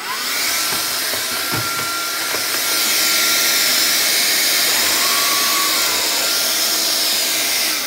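Vax Air Cordless upright vacuum cleaner switched on and spinning up with a rising whine, running steadily with a loud rushing hiss, then switched off near the end.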